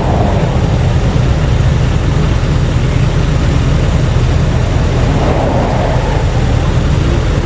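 Steady low rumble of vehicle noise, swelling briefly about five seconds in.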